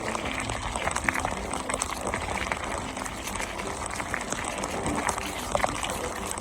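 Mountain bike rolling along a trail: steady tyre and wind noise with scattered clicks and rattles from the bike.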